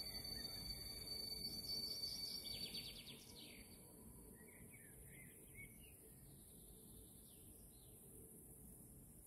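A steady high-pitched whine over a low rumble, cutting off about three seconds in. Small birds then chirp faintly in short repeated calls over quiet outdoor background noise.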